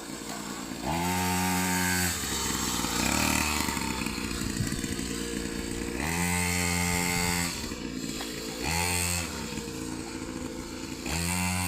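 Small motocross bike engine revving in several bursts of throttle a few seconds apart, falling back to a lower idle between them.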